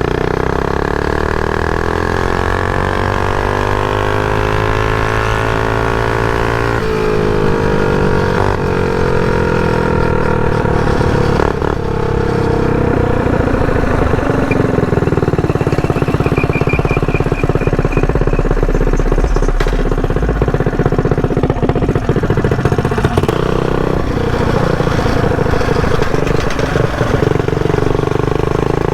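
Mini bike's Predator 212 single-cylinder engine running under throttle, its pitch climbing over the first seven seconds, then holding roughly steady with small rises and falls.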